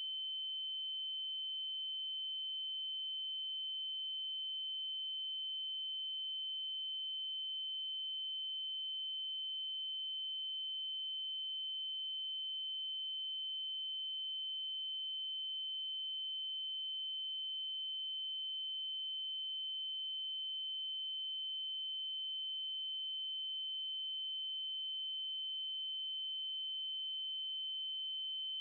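Steady electronic test tone: a 3072 Hz triangle wave held at one pitch and level without a break.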